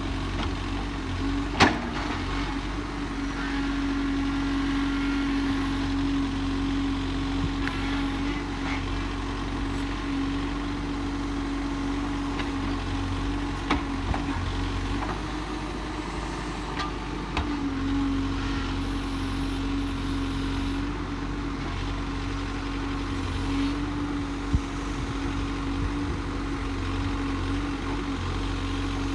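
Backhoe loader's diesel engine running steadily with a constant hum, broken by a few sharp knocks, the loudest one early on and others about halfway through and near the end.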